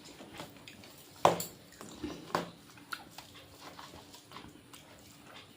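Person eating: chewing and lip-smacking sounds, with a few short, sharp clicks.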